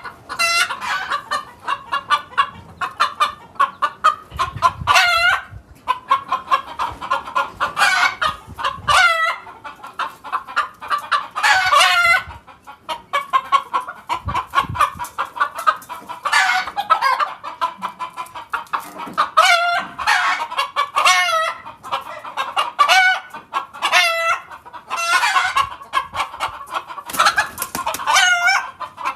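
Birds calling over and over for the whole stretch: a steady run of short calls, with louder, longer calls breaking out every few seconds.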